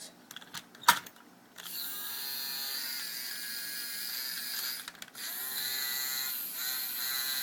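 A small geared motor whirring in two steady runs of about three seconds each, with a few light clicks before the first run.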